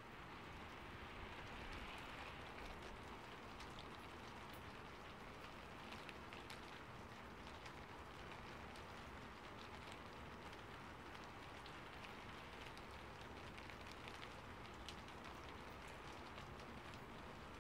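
Faint steady rain, a soft even hiss with scattered sharp ticks of individual drops striking leaves and surfaces.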